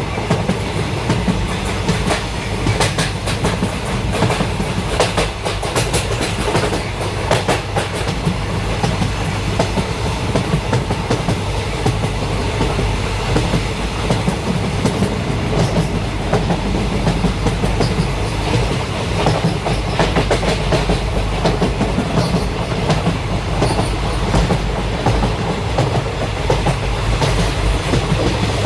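Train running along the track: a steady, heavy rumble with the clickety-clack of wheels passing over rail joints. The clicks come thickest in the first several seconds and again in clusters later on.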